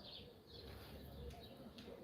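Faint bird chirps, short calls repeating about every half second to a second, over a low steady rumble.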